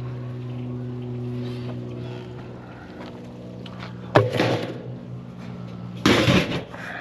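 A steady low motor hum, with two loud clatters about four and six seconds in.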